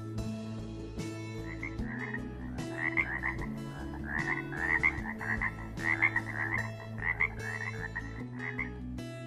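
Catbird imitating a Pacific tree frog: a run of short, rapid croaking calls repeated for several seconds, starting about a second and a half in.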